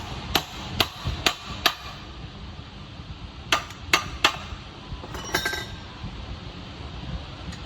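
Hammer tapping on metal engine parts: five sharp blows about half a second apart, a pause, then three more. About five seconds in comes a brief metallic clink with ringing.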